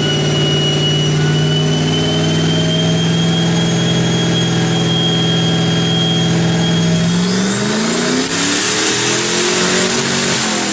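Turbocharged 5.2 L Magnum V8 of a Dodge Dakota running under load on a chassis dyno: held at a steady speed with a high whine for several seconds, then revving up hard as the whine climbs steeply and holds. Near the end the whine cuts off and the engine speed drops away as the throttle closes.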